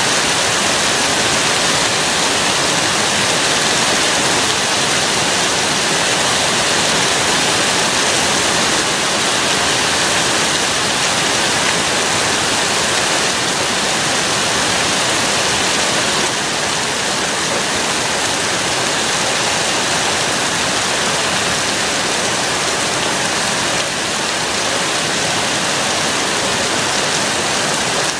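Heavy thunderstorm rain pouring steadily, a dense even hiss of rainfall that eases slightly about halfway through.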